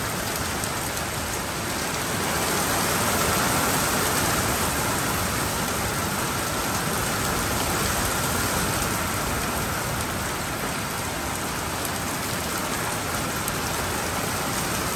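Heavy rain mixed with hail coming down hard in a thundery downpour, a dense, steady hiss that swells a little about two seconds in.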